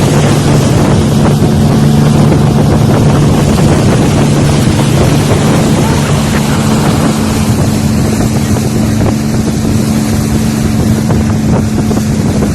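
Motorboat engine running steadily underway, with wind buffeting the microphone and a rush of water.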